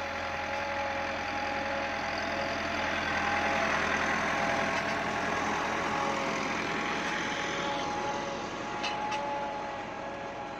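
Massey Ferguson 375 tractor's four-cylinder diesel engine running steadily, with a steady whine over the engine noise. Two short clicks come about nine seconds in.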